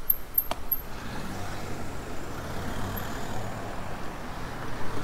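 A motor vehicle running close by, a low steady hum that comes in about a second in, over the rush of the ride. A single sharp click about half a second in.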